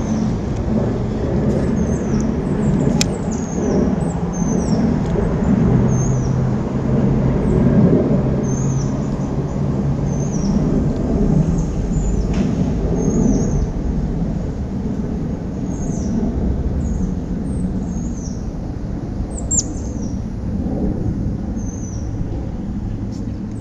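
A small bird chirping over and over, short high chirps that slide downward about once or twice a second, over a steady low rumble.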